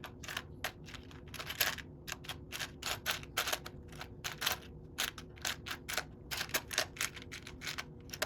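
Loose plastic Lego pieces clicking and clattering as a hand rummages through a container of unsorted parts: rapid, irregular clicks, several a second.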